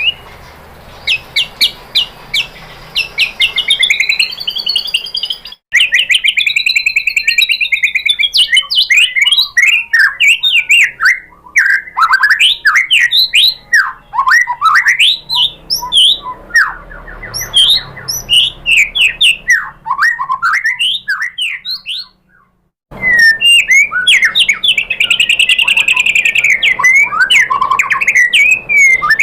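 White-rumped shama (murai batu) singing a fast, varied song of sharp chirps, arching rising-and-falling whistles and rapid trills, breaking off abruptly about six seconds in and again near twenty-three seconds.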